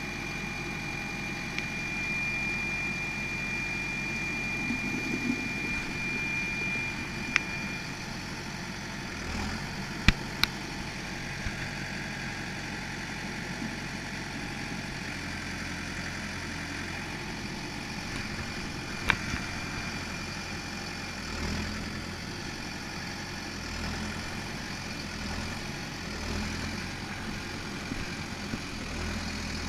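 Farm tractor engine running steadily while the front-end loader bucket is worked by its lever, with swells in the engine's low hum as the load changes. A high steady whine stops about seven seconds in, and a few sharp clicks or knocks come around ten and nineteen seconds in.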